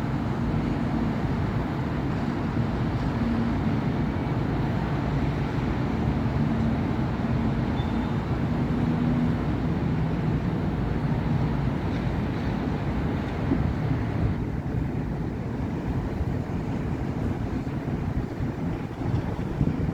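City street traffic: a steady wash of car and bus engines and tyres on the road, with a low engine hum standing out over the first half. The traffic noise thins a little about two-thirds through.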